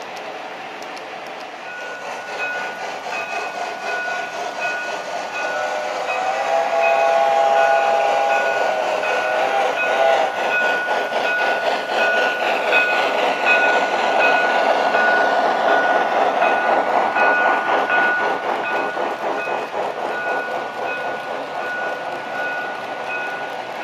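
Model Southern Pacific AC-12 cab-forward steam locomotive running with its train, with a rapid rhythmic clatter and a steady high whine. Its whistle sounds about six seconds in for roughly four seconds. The sound grows louder, then slowly fades as the train passes.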